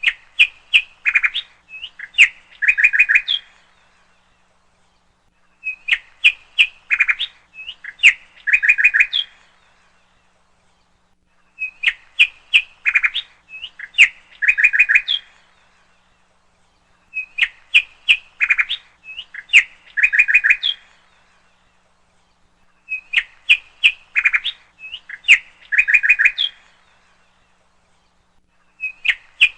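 Bird song: a short phrase of sharp chirps followed by quick trills, repeated about every six seconds in the same pattern each time, with quiet gaps between phrases.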